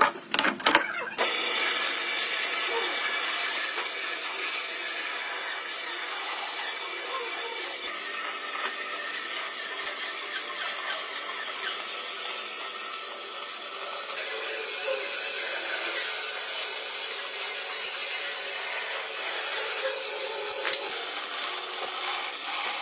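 A few quick knocks, then a power tool working wood runs steadily for the rest of the time, giving an even rushing noise.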